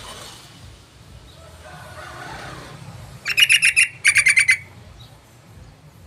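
Yellow-vented bulbul (trucukan) call: two quick bursts of rapid chattering notes, about eight a second, a little past the middle.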